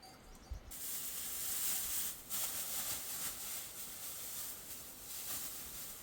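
A steady, high hiss that starts suddenly about a second in and wavers in strength.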